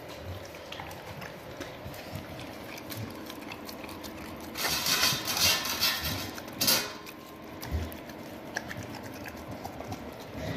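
Dogs at their food bowls: scattered light taps and clicks, with a louder scraping rush about halfway through and a sharp knock just after it.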